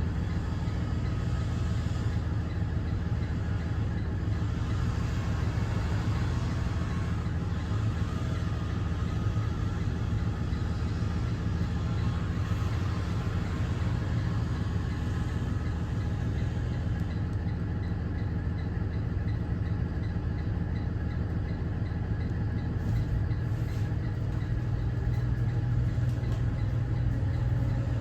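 Cummins ISB 6.7 straight-six diesel of a Thomas Saf-T-Liner C2 school bus running steadily, getting a little louder near the end.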